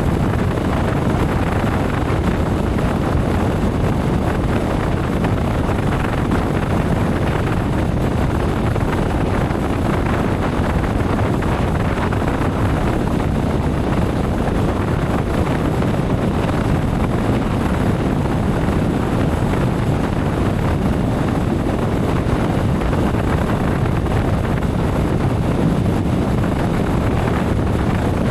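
Motorcycle riding at steady speed: continuous wind rush on the microphone over the engine and road noise, with no changes throughout.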